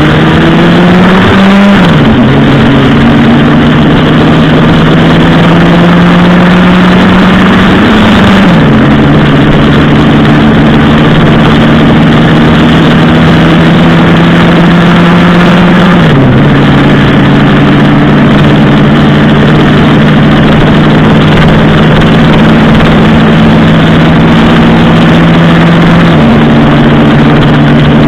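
Motorcycle engine under way: the revs climb at the start, then the note drops sharply with each upshift about two, eight, sixteen and twenty-six seconds in, holding steady between changes.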